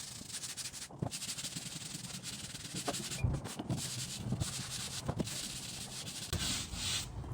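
Stiff brush scrubbing a grimy wooden board in quick back-and-forth strokes, with a few brief pauses.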